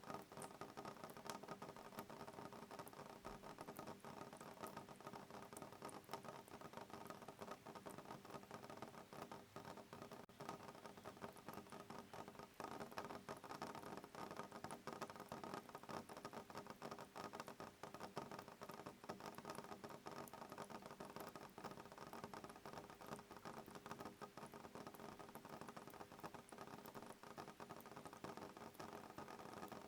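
Soft rain pattering steadily on a window pane: a faint, dense tapping of many small drops.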